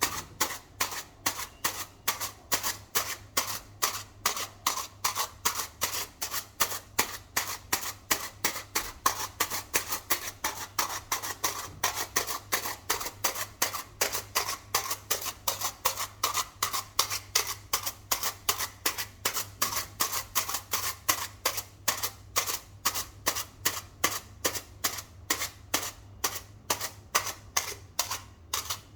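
Sharp, evenly repeated clicks or taps, about three a second, over a steady low hum.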